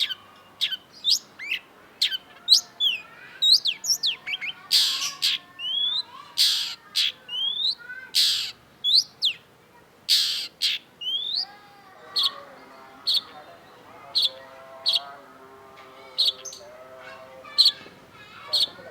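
Long-tailed shrike singing: quick downslurred whistles mixed with harsh rasping notes, then about halfway through a run of short sharp notes, roughly one a second, over a lower chattering warble.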